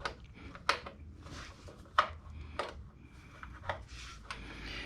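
Light clicks and clinks of small metal parts and hand tools being handled during engine repair work, about half a dozen separate knocks spread irregularly over a few seconds.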